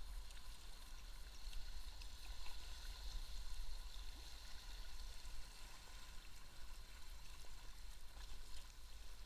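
River water running and gurgling around a kayak on a rocky stretch, a steady wash of noise with a low rumble beneath it.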